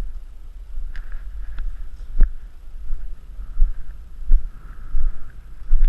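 Wind buffeting the microphone in a steady low rumble, with a few sharp knocks and, now and then, a faint higher hum.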